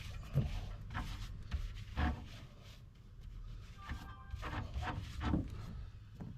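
Scattered metal clinks and knocks of hand tools and hitch hardware being handled, a few of them ringing briefly.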